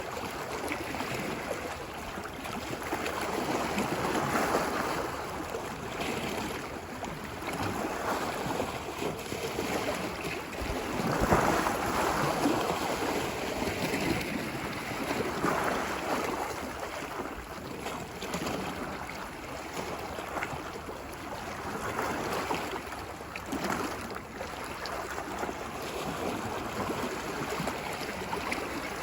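Small ocean waves washing onto a beach, the surf swelling and easing every three to four seconds over a steady background wash.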